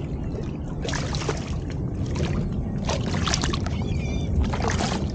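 Sounds of a small fishing boat on the water: a low steady rumble with several brief sharp knocks and splashes scattered through it.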